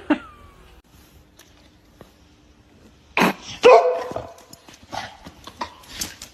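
A dog barking: one loud bark about three seconds in, followed by a few quieter short sounds.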